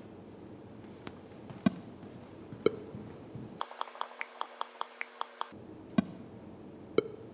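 Short test clicks played through two loudspeakers about 34 m apart down a long corridor, with the nearer speaker delayed about 100 ms to compensate for the distance. The clicks come about one a second, with a quicker run of about ten clicks in the middle.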